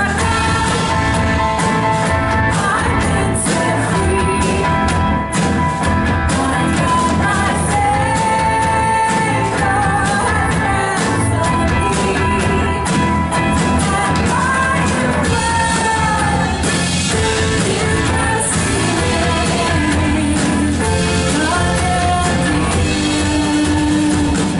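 Live worship band playing a song with lead vocals, in a full-band rock/pop style with drums.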